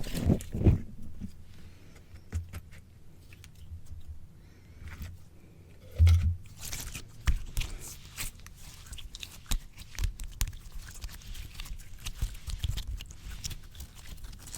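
Slime squished and pressed against a microphone: irregular sticky clicks, pops and crackles over low thumps, with the loudest thump about six seconds in.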